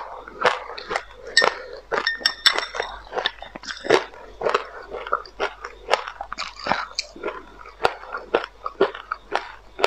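Chewing a mouthful of white sesame seeds mixed with passionfruit pulp and seeds: many quick, irregular crunches.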